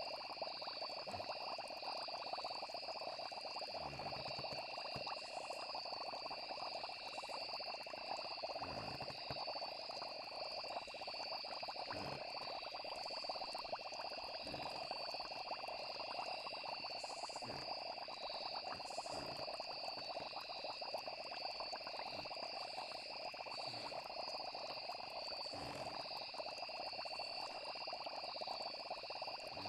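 Night chorus of crickets and frogs: a steady, high insect trill over a dense frog chorus, with a few soft low pops scattered through.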